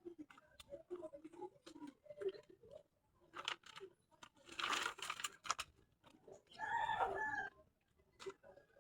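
A rooster crowing once, about a second long, a little past the middle. Scattered clicks and a short rustling burst come just before it.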